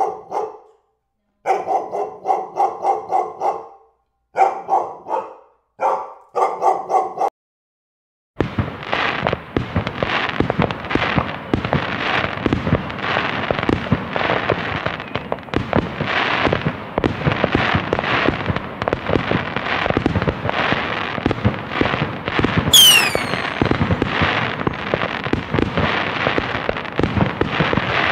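A dog barking in quick bursts of several barks each, with short silences between. About eight seconds in, a dense, unbroken barrage of fireworks crackling and popping takes over, with a brief high whistle falling in pitch late on.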